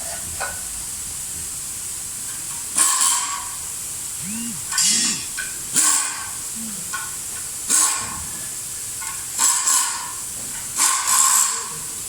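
About six short bursts of hiss, each roughly half a second long, a second or two apart.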